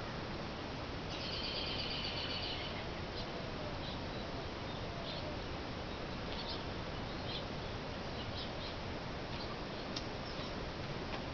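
Small birds chirping: a quick chattering run about a second in, then scattered short chirps, over a steady hiss of outdoor background noise.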